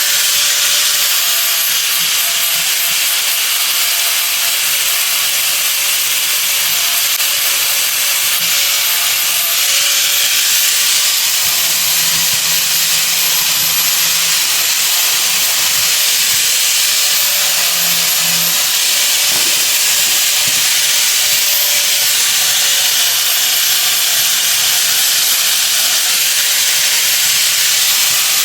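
A steady, loud hiss that runs without a break, with a few faint tones beneath it.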